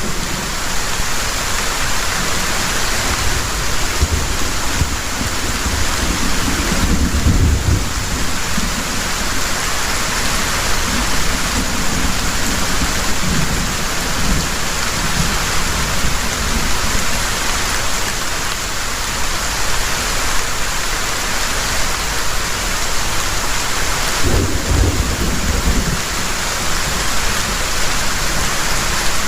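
Heavy rain falling steadily, with low rolling thunder that swells twice: once about a quarter of the way in and again toward the end.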